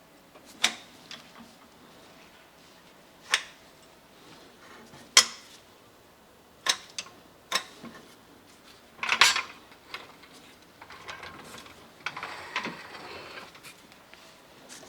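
Metal parts or tools being handled: separate sharp clinks and clanks every second or two, the loudest about nine seconds in, then a stretch of rougher scraping and rattling.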